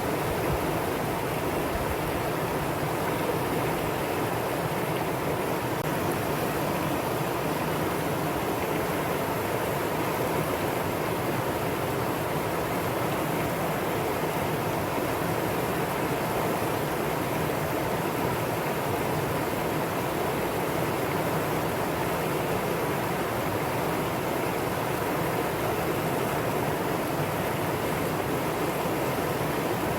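Mountain stream flowing over rocks in a steady rush of water, with no change in level.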